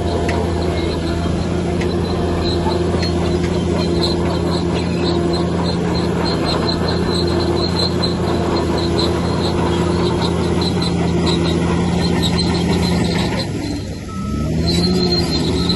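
Crawler bulldozer's diesel engine running steadily under load, with a high repeating metallic squeal and clatter from the tracks. About thirteen seconds in the engine drops briefly, then its pitch climbs back up.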